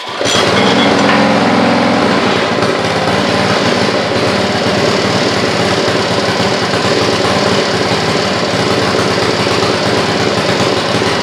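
Rototiller's small gasoline engine starting right away and running loudly and steadily, its fuel system still holding bad gas by the owner's account.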